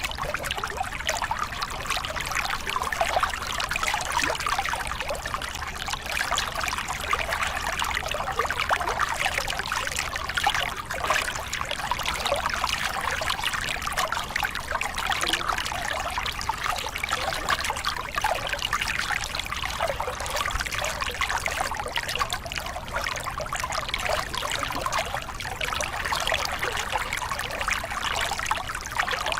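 Small river cascade: water splashing and rushing steadily over rocks, an even continuous burble with no breaks.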